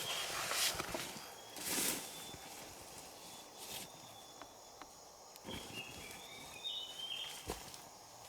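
Outdoor handwork sounds: bursts of rustling, as of leaves or brush being handled, and a few sharp knocks. Short high bird chirps come faintly now and then.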